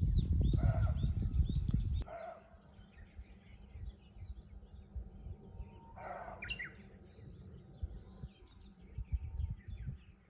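Small birds chirping and calling throughout, with a louder call about six seconds in. A loud low rumble fills the first two seconds and stops abruptly.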